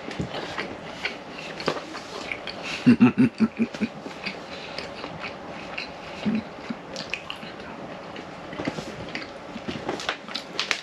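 A person chewing a mouthful of pan-fried ham, with scattered light clicks and taps, and a short voiced murmur about three seconds in.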